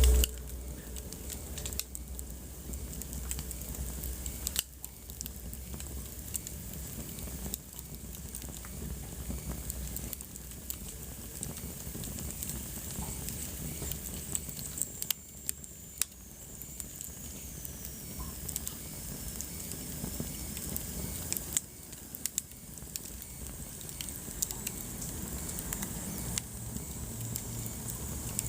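Wood fire crackling, with sharp pops scattered over a steady hiss. A faint high whistle slides down in pitch for a few seconds about halfway through.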